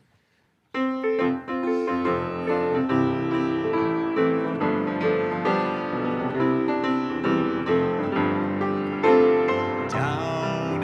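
Piano introduction to a gospel song, playing steady chords and a melody line; it starts suddenly under a second in.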